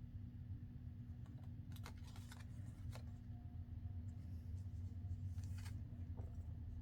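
Paper and cardstock being handled on a tabletop: a few light taps and rustles over a steady low hum.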